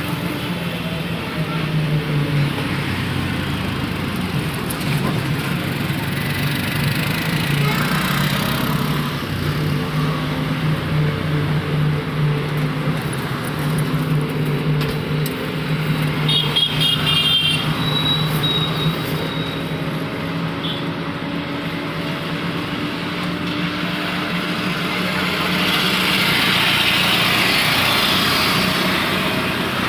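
Ride inside a moving auto-rickshaw: its small engine runs steadily under road and traffic noise. A short high-pitched repeated sound comes about sixteen seconds in, and a louder rush of noise near the end.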